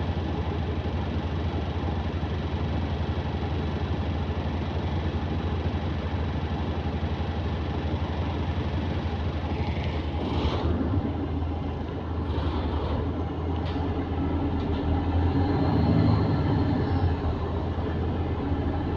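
A London double-decker-type service bus running along the road, heard from inside: a steady low engine hum with road noise, a brief hiss about halfway through, and the engine building a little in the last few seconds.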